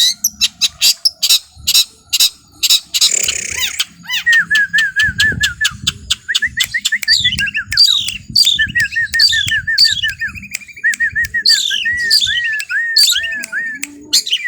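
A small songbird singing a fast, busy song. It opens with sharp chattering notes and a harsh call a few seconds in, then goes on to rapid runs of short repeated notes broken by quick falling whistles.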